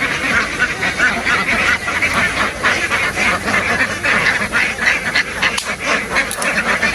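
A large flock of domestic ducks quacking together: a loud, continuous din of many overlapping calls.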